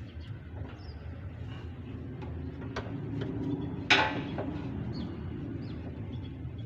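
Steady low background rumble with scattered light clicks, and one sharp knock about four seconds in, ringing briefly.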